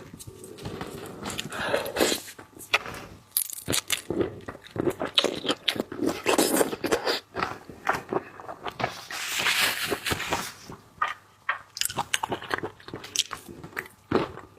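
Close-miked eating of seafood: irregular bites, crunches and chewing.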